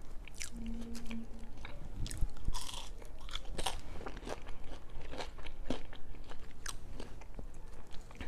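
Close-miked chewing of a mouthful of food, irregular short wet clicks of the mouth and teeth, with a brief low hum about a second in.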